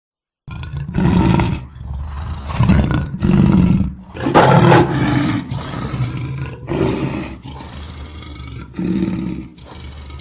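Lion roaring: after a brief silence, a bout of about six loud roars with grunting in between. The roars are loudest about four and a half seconds in and weaker near the end.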